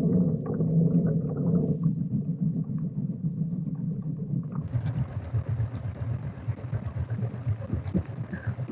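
Kayak under way on the water. A steady low hum runs for the first couple of seconds, then there is a churning rumble, and wind noise on the microphone joins about halfway through.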